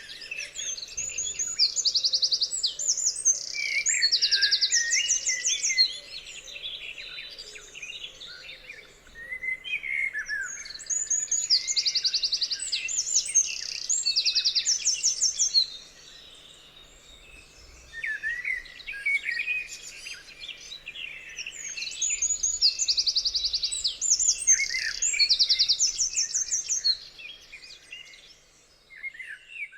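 Songbirds singing high chirps and fast trilled phrases in three bouts of several seconds each, with quieter spells between them.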